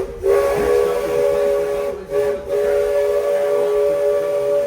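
Steam locomotive whistle on the Walt Disney World Railroad sounding a chord of several tones, with a breathy hiss. It blows a long blast, a brief short toot about two seconds in, then another long blast that stops near the end.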